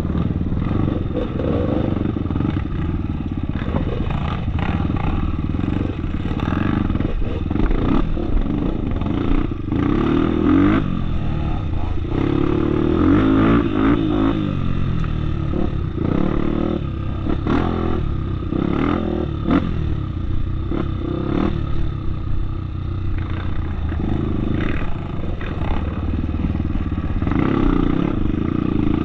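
Off-road motorcycle engine running under load on a dirt trail, its pitch rising and falling as the throttle is worked, with repeated knocks and rattles from riding over rough ground.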